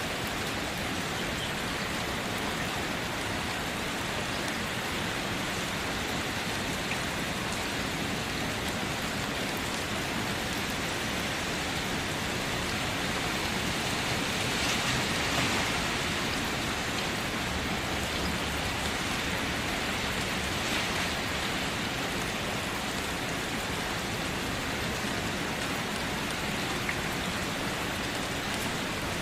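Steady rain, an even continuous hiss of falling drops that swells slightly about halfway through.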